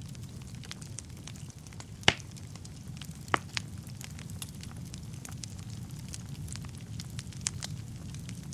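Wood fire burning in a fireplace: a steady low rumble of the flames with scattered sharp crackles and pops, the loudest about two seconds in and a little after three seconds.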